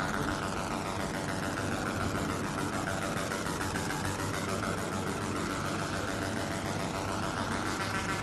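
Jeans laser washing machine running steadily: a continuous machine hum with a fast, dense buzz whose tone rises and falls in slow sweeps every few seconds.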